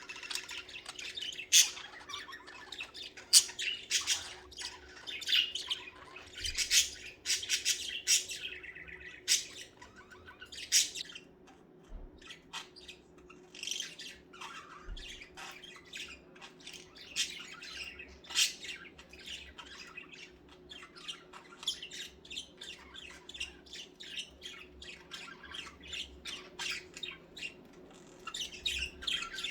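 Budgerigars chattering and warbling without pause: quick, sharp chirps and squawks, several birds calling over one another, with a faint steady hum beneath.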